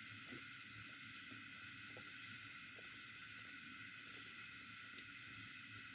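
Faint insect chirping: a steady string of short, high pulses, about three a second, with a faint click near the start.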